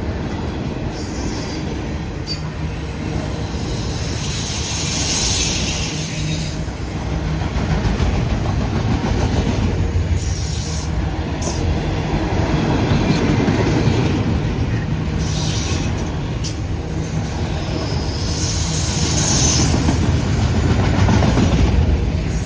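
Freight train rolling past: a steady rumble of steel wheels on rail, with high-pitched wheel squeal coming and going several times.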